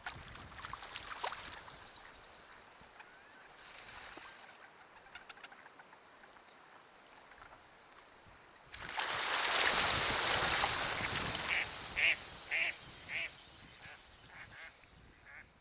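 Ducks on the water with faint scattered splashes and clicks, then a loud rush of noise about nine seconds in, followed by a quick run of four or five quacks.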